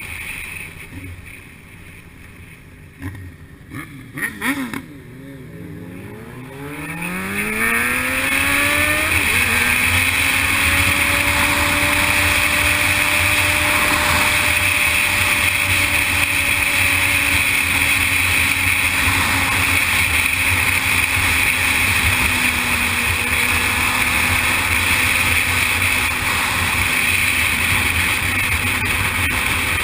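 Sportbike engine accelerating, its pitch climbing for a few seconds, then holding steady at cruising speed under constant wind rush; the pitch dips slightly and rises again near the end. A few sharp knocks come early, while the engine is still quiet.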